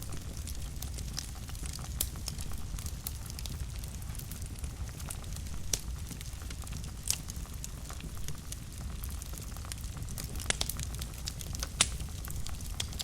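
Wood fire burning in a fireplace: a steady low rumble of flames with sharp, irregular crackles and pops, a few louder snaps scattered through.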